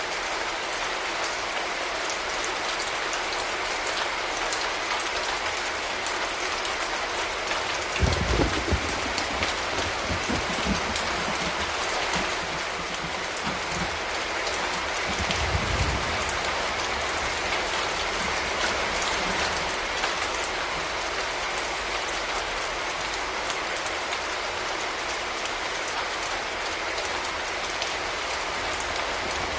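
Steady heavy rain pattering on hard surfaces, a dense hiss full of small drop clicks. Two brief low rumbles sound about 8 and 15 seconds in.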